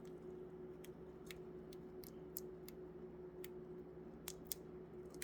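Faint, scattered clicks and taps, roughly one or two a second, from budgies moving about on the perches and bars of their cage, over a faint steady hum.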